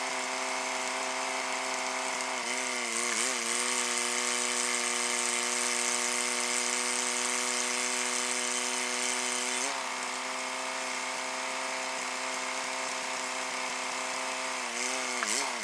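An engine running steadily at a fixed speed, its pitch wobbling briefly a few times, about three seconds in, near ten seconds and again near the end.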